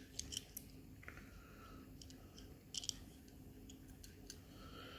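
Faint, scattered small clicks and light rustling of small die-cast toy cars being handled and set down, over a faint steady hum.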